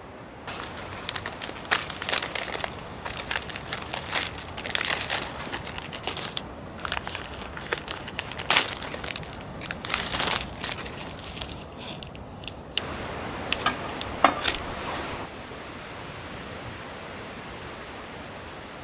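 Irregular crinkling and rustling, like material being handled, with scattered sharp clicks. It stops about three-quarters of the way through, leaving a steady hiss.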